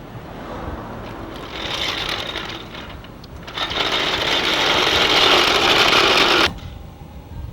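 Power impact wrench rattling in two bursts, a short one and then a longer, louder one of about three seconds that stops abruptly, as it works bolts during the engine swap.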